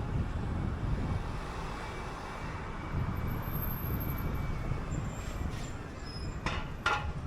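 City bus running, a steady low rumble. Two short sharp clatters near the end.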